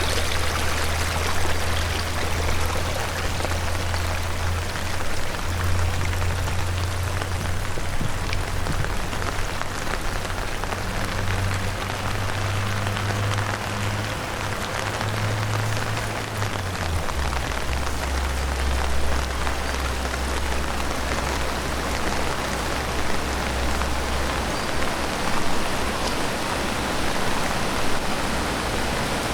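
Heavy rain falling steadily, a dense even hiss of drops. Underneath runs a low hum that drops in pitch about two-thirds of the way through.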